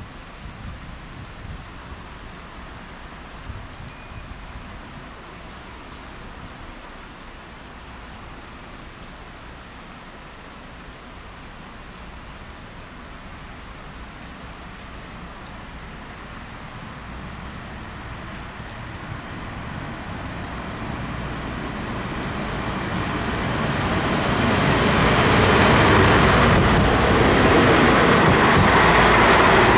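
A train approaching a station platform: over a steady background hiss its noise builds from a little past halfway and grows into a loud, even rush of wheels on rails, loudest near the end as it reaches the platform.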